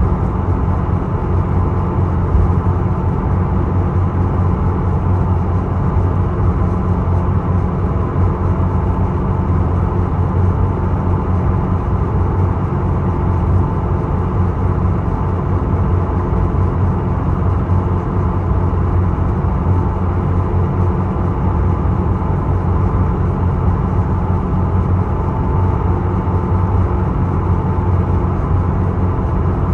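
Ferry Isokaze's engine running with a steady low drone, a faint whine held above it.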